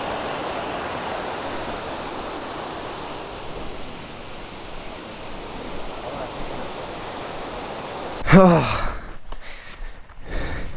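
Steady rushing of a waterfall. About eight seconds in it cuts off suddenly and a short voiced sound with falling pitch follows.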